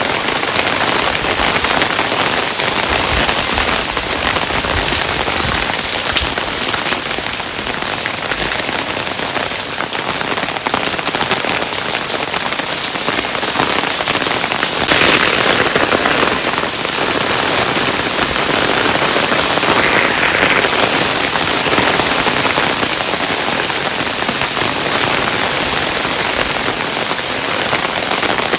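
Hailstones falling and pattering densely and steadily on a surface. About fifteen seconds in there is a brief, slightly louder spell.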